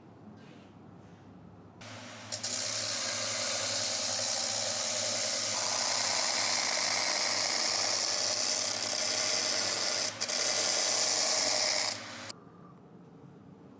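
Power sanding or grinding machine abrading a shoe sole: a motor hum with a loud, steady abrasive hiss. It starts about two seconds in, grows louder as the work is pressed on, breaks off for a moment near ten seconds, and stops suddenly about twelve seconds in.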